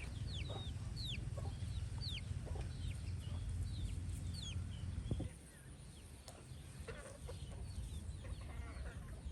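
Chickens calling nearby: a series of short, high notes that fall in pitch, a few a second, over a low steady rumble that drops off about five seconds in.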